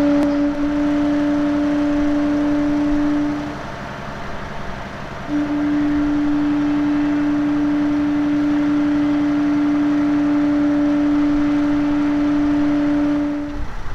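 A steady machine hum at one pitch, stopping about three and a half seconds in, starting again about a second and a half later, and cutting off near the end.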